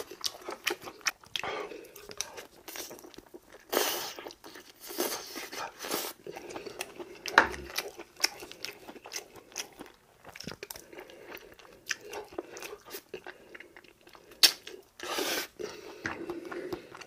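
A man chewing and crunching food close to the microphone, with many short irregular wet smacks and clicks.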